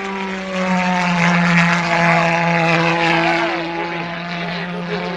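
Model aircraft's pulse jet engine in flight, a loud steady buzz that swells as it passes about two seconds in, then fades a little.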